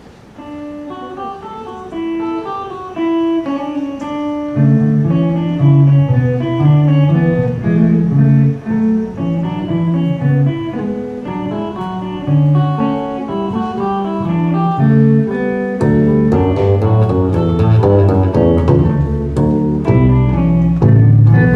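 A small instrumental ensemble plays a fugue, its parts entering one after another: a single melodic line at first, a lower part joining about four seconds in, and a bass line entering near the three-quarter mark, the music growing fuller and louder with each entry.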